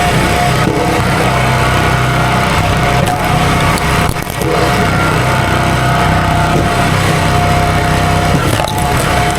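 Two-stroke chainsaw running steadily at high throttle, as when cutting through a stump, with a brief dip in level about four seconds in.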